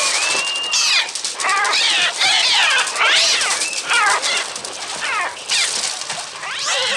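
A flock of gulls shrieking, many harsh, rising-and-falling screeches overlapping without a break. These are the film's electronically made bird cries, produced on a Mixtur-Trautonium.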